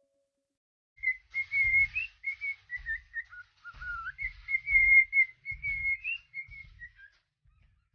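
Parrot whistling a wavering tune, mostly on one pitch with brief dips and quick upward flicks, starting about a second in and stopping near the end. Dull low thumps come under the whistling.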